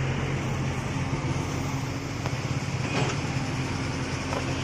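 Diesel engine of a JCB earthmoving machine running steadily, with a light knock about three seconds in.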